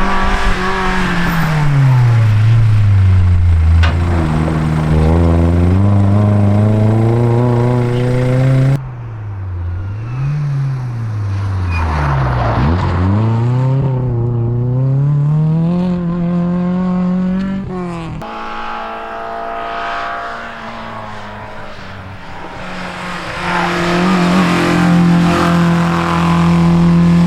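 Historic rally car engines at full throttle, the pitch climbing and dropping through gear changes as the cars accelerate and brake. The sound changes abruptly about a third and two thirds of the way in, as a different stretch or car begins.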